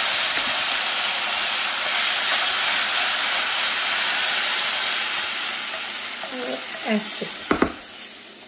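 Hot desi ghee with garam masala sizzling hard as chickpeas go into the frying pan for the tadka. The pan is then tipped into the pot of chickpeas. The sizzle fades over the last couple of seconds, and there is a sharp knock near the end.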